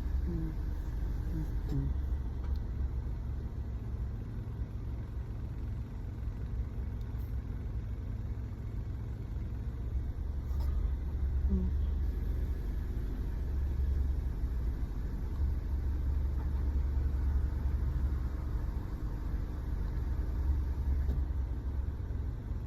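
Car engine idling: a steady low rumble with a faint hum, heard from inside the car.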